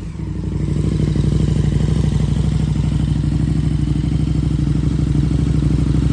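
KTM 1290 Super Duke R's V-twin idling steadily through an Austin Racing dual full exhaust, settling just after a rev.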